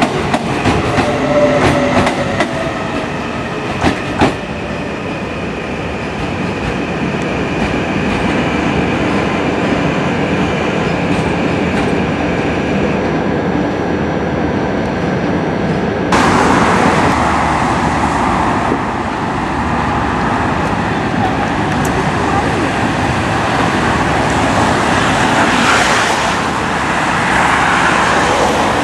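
Railway train running, wheels clicking over rail joints, with a steady high whine for the first half. A little past halfway the sound changes abruptly to a louder, hissier rushing noise.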